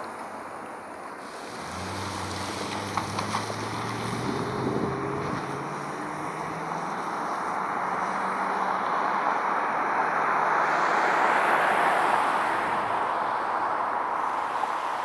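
Road traffic: a motor vehicle passes, its engine and tyre noise swelling to a peak about eleven or twelve seconds in. A low, steady engine drone is heard over roughly the first half.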